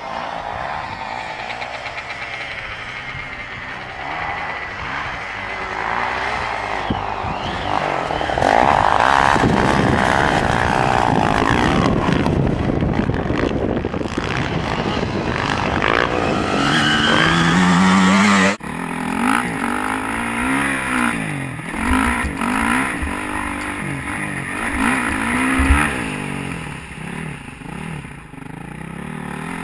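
Honda CRF450 motocross bike's single-cylinder four-stroke engine being ridden hard, its pitch rising and falling as the throttle is worked on and off. The sound changes abruptly about two-thirds of the way through, cutting to another stretch of riding.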